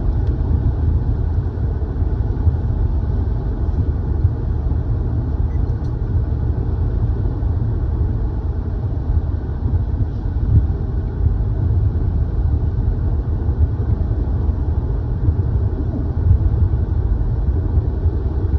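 Steady low rumble of a car driving along a road, heard from inside the cabin: engine and tyre noise at a constant speed.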